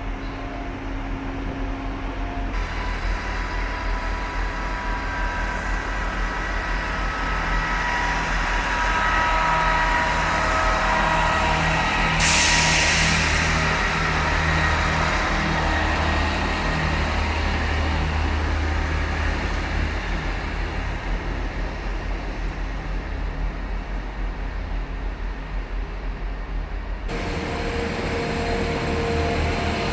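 Train running with a steady low engine rumble and a faint whine, with a short loud hiss of air a little under halfway through.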